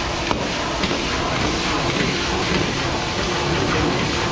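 Chicken wings frying in a fish-sauce glaze in a pan, a steady sizzle over a low rumble, with a light click about a third of a second in.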